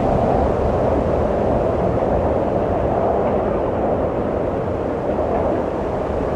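Steady wind blowing, a constant whooshing rumble that swells and eases only slightly.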